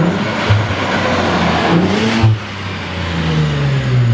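Infiniti Q50's twin-turbo V6 through a new Stillen aftermarket exhaust, revving up for about two seconds with a rising note, cutting off suddenly, then a lower note falling away.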